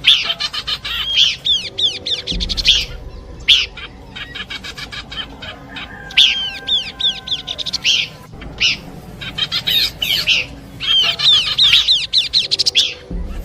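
Pelanduk semak babbler song: repeated bursts of rapid, falling whistled notes and fast chattering trills, about six phrases with short gaps between them.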